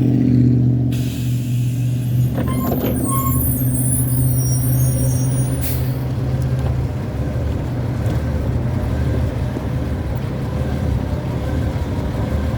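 City bus engine running steadily, with a hiss of air starting about a second in and ending in a short burst near six seconds, typical of a bus air-brake system, and high squeaks around two to three seconds in.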